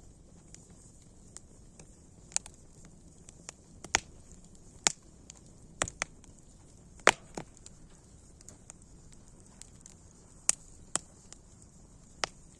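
Wood fire crackling: sharp, irregular pops and snaps, the loudest about seven seconds in, over a faint steady hiss.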